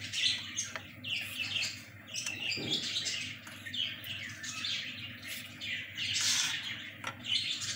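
Small birds chirping and twittering in quick, overlapping high calls.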